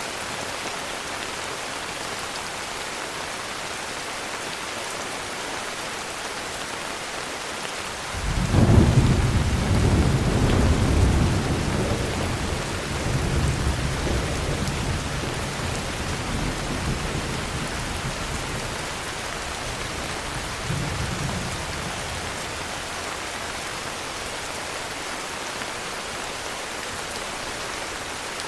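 Heavy rain falling steadily, with a clap of thunder breaking in about a third of the way through, loudest at its start and rumbling away over some ten seconds; a weaker rumble follows about two-thirds of the way in.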